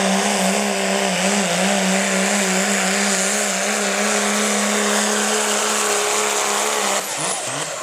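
Four-wheel-drive pickup truck engine held at high revs under full load while pulling the weight sled, its pitch wavering slightly over a heavy rushing noise. About seven seconds in, the engine lets off abruptly and the sound drops.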